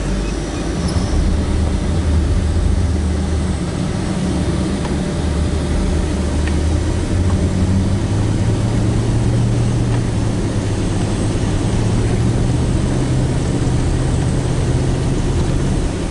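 Pickup plow truck's engine running under load in deep snow, a steady low hum whose pitch rises about halfway through and holds as the engine works harder.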